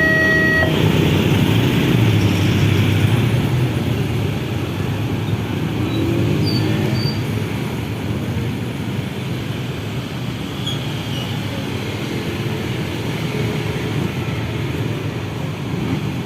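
A level-crossing warning tone cuts off about half a second in. Then road traffic runs steadily: the engines and tyres of passing vehicles.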